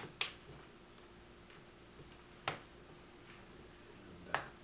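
Three sharp clicks spaced a couple of seconds apart, the first the loudest, as a plastic pick pries at the case of a 30 GB iPod Video and its snap-fit clips let go.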